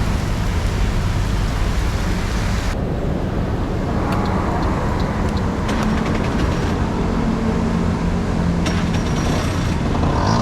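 Honda Dio's small two-stroke engine running steadily under the heavy hiss of rain. About three seconds in, the rain hiss drops away suddenly, leaving the engine's low hum and a few light clicks.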